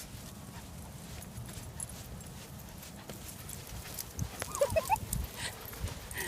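A puppy giving a few short, high whines, starting about four seconds in, over a steady low rumble.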